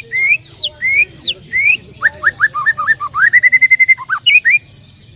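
Canary singing: a run of repeated two-part slurred whistles, each a low rising note then a high falling one. Faster varied notes follow, then a quick rapid trill. The song stops about four and a half seconds in.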